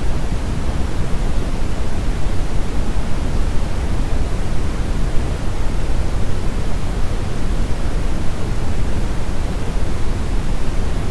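Brown noise: a steady, even rumbling hiss with most of its weight in the low end, thinning out toward the highs, with no change in it.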